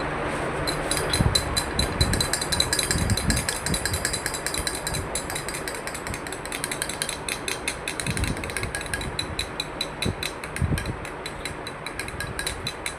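Rapid, irregular clicking, many clicks a second, over a steady background noise, with a few low thumps.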